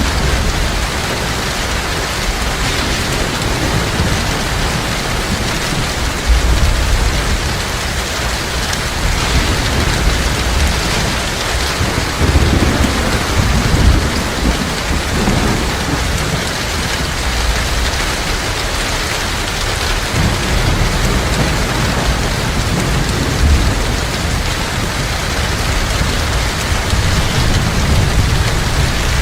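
Heavy rain falling in a steady downpour, with low rumbles of thunder swelling up now and then.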